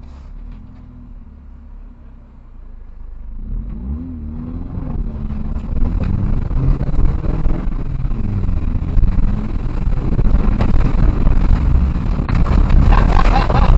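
Citroën C2 rally car's engine idling, then pulling away about three seconds in and revving up and down through the gears, getting steadily louder. A rising rush of noise builds over the engine as the car gathers speed.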